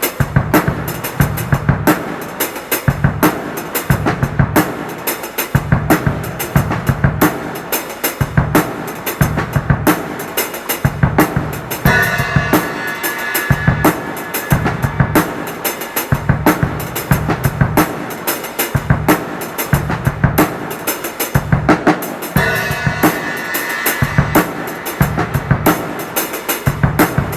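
Drum kit played in a steady groove: bass drum pulses on the beat under snare hits, rimshots and cymbals. About twelve seconds in and again near the end, a ringing, sustained passage rises over the beat for a couple of seconds. The kit is a poor-quality one.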